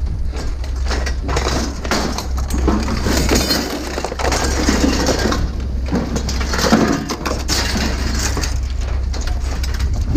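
Continuous clattering, knocking and crunching of hard junk being handled and sorted, over a steady low rumble.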